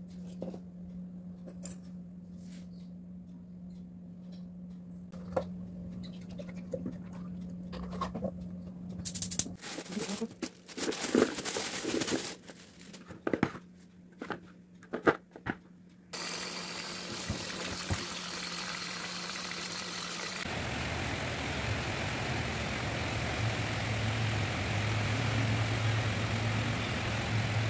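A steady low hum with scattered taps and knocks of okra pods being handled, then a sudden cut to the loud, even hiss of heavy rain on a city street, with the low rumble of passing car traffic joining in later.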